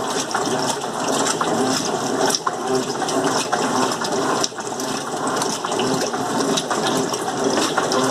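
Electrolux LM08 top-load washing machine in its rinse stage, water splashing and rushing in the tub with a steady run of small clicks and knocks.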